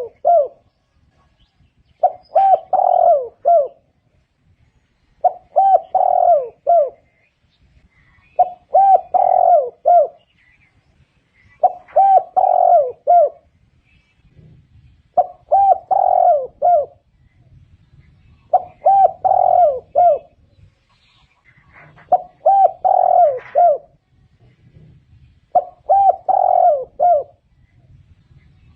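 Spotted dove cooing: a phrase of several low, gliding coos about one and a half seconds long, repeated at a steady pace about every three seconds, eight times over.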